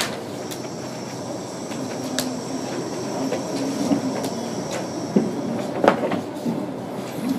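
Distant rail traffic: a steady rumble of trains running on the tracks. A faint, steady high tone runs through most of it, with a few sharp knocks, the loudest about six seconds in.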